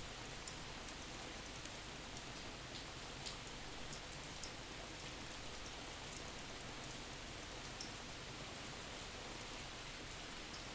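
Steady rain recorded at an open back door: an even hiss with scattered drop ticks, panned from side to side.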